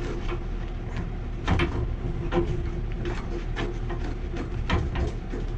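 Wrench clicking and knocking on threaded gas pipe fittings as a joint is turned back, a few irregular metallic clicks over a steady low hum.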